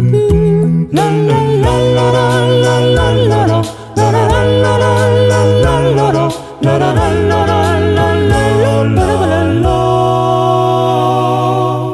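A cappella vocal group singing wordless sustained harmonies over a deep vocal bass line, with sharp beatboxed percussion hits. The chord fades out near the end.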